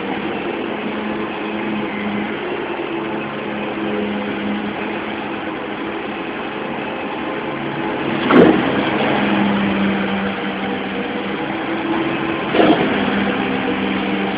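Dumper engine running steadily, with two sharp clunks, the first and louder about eight seconds in and another near the end.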